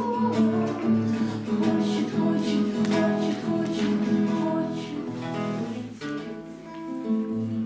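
Acoustic guitar strumming chords in an instrumental break of a song, with no voice.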